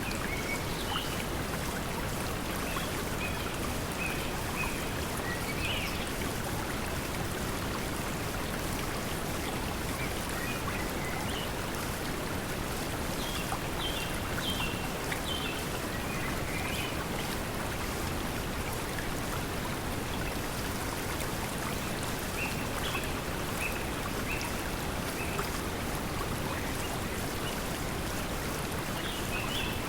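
Steady pink noise mixed with flowing stream water, with brief bird chirps in a few clusters: near the start, midway, and near the end.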